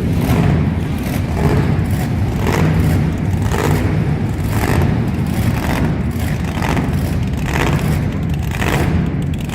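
Monster truck engines running loud in the arena, surging about once a second.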